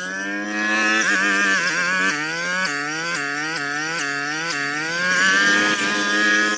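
Petrol brush cutter engine running at high revs, its pitch dipping and recovering about twice a second as the blade bites into thick, overgrown brush.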